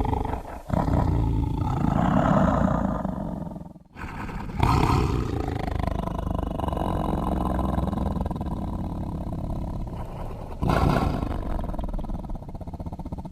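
Designed creature roars for the burrunjor, a T. rex-like theropod dinosaur: three deep roars, the first cut off abruptly about four seconds in, the second starting suddenly half a second later and running long, and a third loud one beginning near the end.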